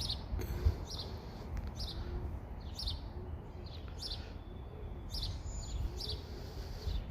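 Small birds chirping in short, high, repeated calls about once a second, over a low rumble of wind on the microphone.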